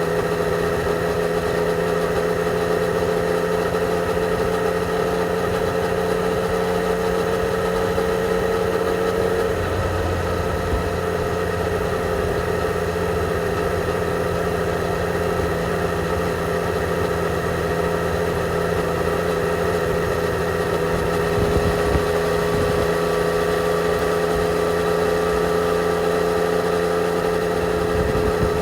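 2020 Yamaha XSR 900's inline-three engine through its stock exhaust, running under way on the road. The engine note climbs slowly, drops suddenly about a third of the way in, then holds steady.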